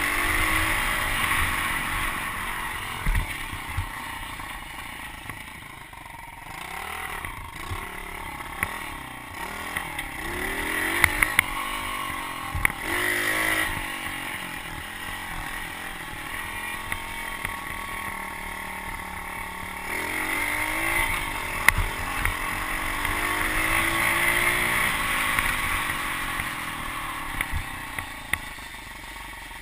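Pit bike engine being ridden, its pitch rising and falling again and again as the throttle is worked, with scattered sharp knocks and clatter.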